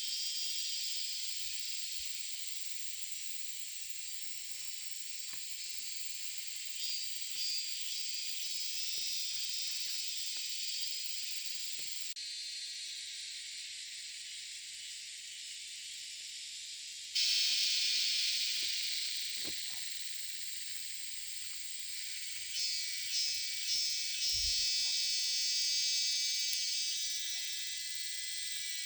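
A chorus of insects, such as cicadas or crickets, chirring steadily and high-pitched, swelling into louder pulsing calls a few times. Faint scattered clicks sound beneath it.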